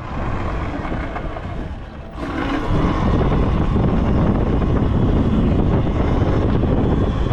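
Pit bike engine running under the rider, with wind rushing over the microphone. The sound drops off briefly about two seconds in, then comes back up strongly.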